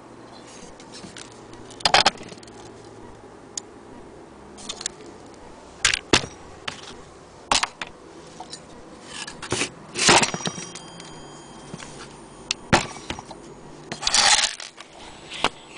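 Irregular clicks, knocks and short scraping rattles of hard objects being handled, with no steady rhythm; the two longest rattles come about ten and fourteen seconds in.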